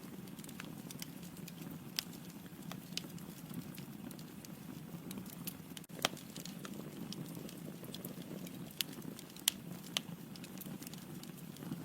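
Wood logs burning in a fireplace: a steady low sound of the flames with frequent sharp crackles and pops, the loudest about two, six and nine and a half seconds in.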